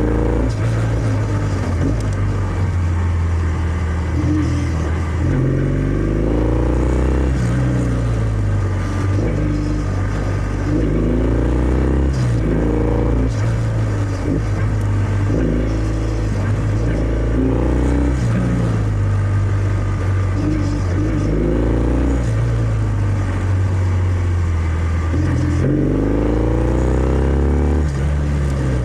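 Kawasaki W650's air-cooled parallel-twin engine running through its stock exhaust under way, its note rising again and again, about every two to three seconds, as the throttle is opened through the gears.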